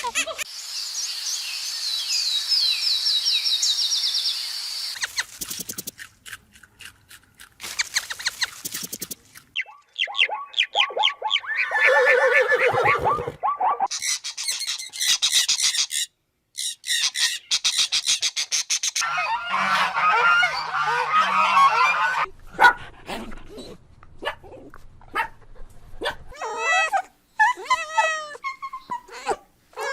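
A series of different animal and bird calls, one short clip after another with abrupt cuts between them: high chirping near the start, then various pitched calls and cries.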